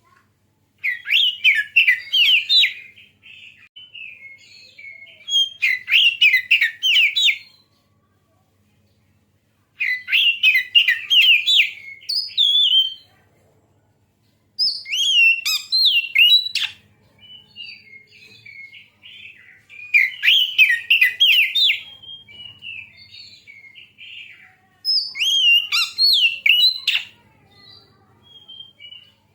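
Oriental magpie-robin (kacer) singing: six loud phrases of about two seconds each, fast runs of varied, bending whistled notes, separated by softer scattered twittering.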